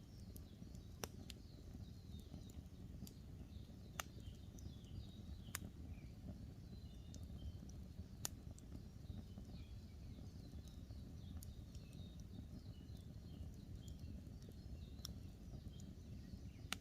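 Wood campfire crackling, with sharp single pops every second or few over a low steady rumble. Many small birds chirp faintly in the background throughout.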